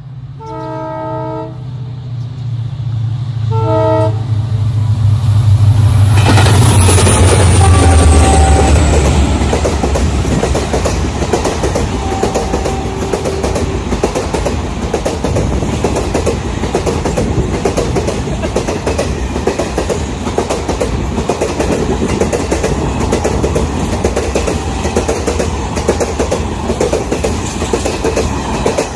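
An Indian Railways diesel-hauled passenger train sounds its horn twice, then its engine rumble swells as the locomotive runs past about six to eight seconds in. The coaches then clatter past steadily over the rail joints for the rest of the time.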